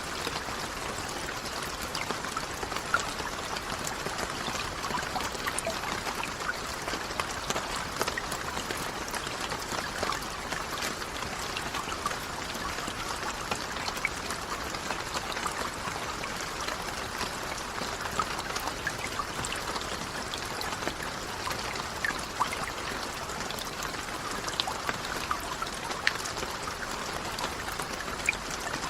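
Steady rainfall: an even hiss of rain with many scattered sharp ticks of individual drops striking.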